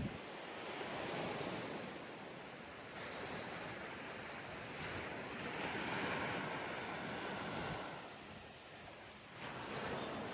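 Ocean surf breaking and washing up a sandy beach, with the wash swelling and easing every few seconds.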